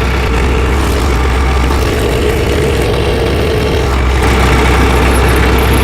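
Tractor engine idling steadily, a constant low rumble.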